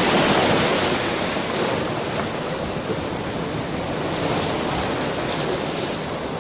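Ocean surf: a steady wash of breaking waves, loudest near the start and easing off a little.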